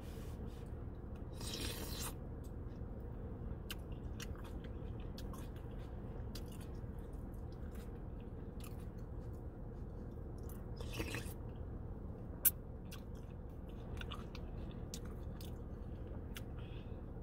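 Close-up chewing and wet mouth sounds of a person eating birria meat and cheese dipped in consomé, with many small smacks and clicks and two brief noisy breaths or slurps. One sharp click about 12 seconds in is the loudest sound, over a low steady rumble.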